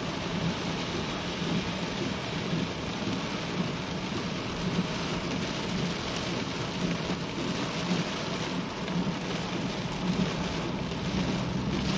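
Heavy rain falling in a steady downpour hiss, with a low steady hum underneath from a car driving slowly through it.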